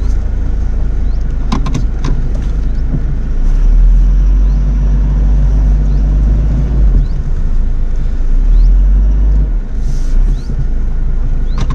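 Car engine running under load as the car works over a rocky dirt track, its low rumble swelling twice, with a few knocks about two seconds in.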